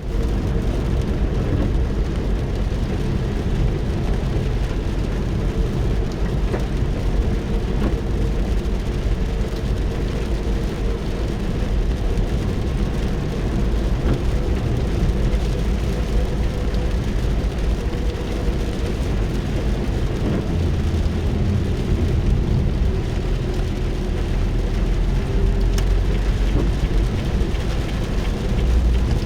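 Rain falling on a car's roof and windows, heard from inside the cabin as a steady patter over a constant low rumble.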